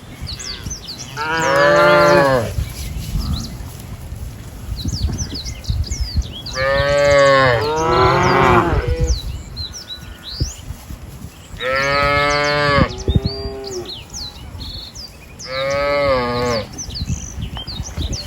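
Cows mooing: four drawn-out moos of one to two seconds each, the second one doubled, with small birds chirping throughout.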